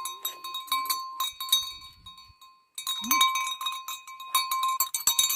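A small metal bell clanking rapidly and unevenly, with a short break about halfway. A brief rising animal cry comes about three seconds in.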